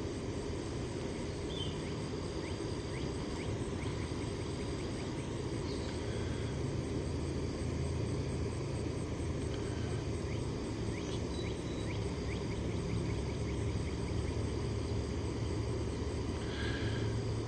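Steady low engine rumble from a distance, with a faint high steady hum and a few faint short chirps scattered through.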